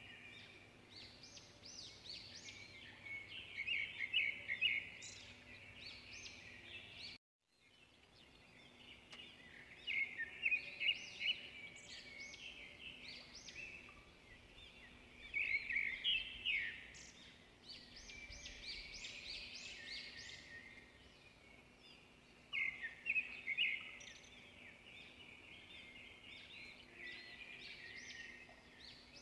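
Birds chirping and singing in repeated bursts of quick, high trilling notes, with a brief dropout to silence about seven seconds in.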